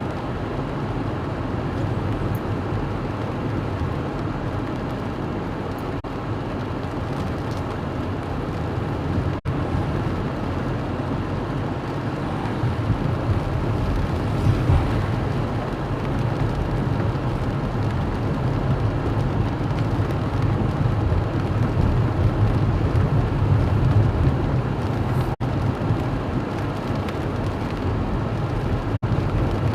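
Steady road and engine rumble of a car being driven, heard from inside the car. The sound cuts out very briefly three times.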